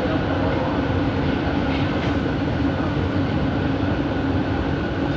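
Bombardier Innovia ART 200 train car running, heard from inside: steady rolling noise with a constant motor hum.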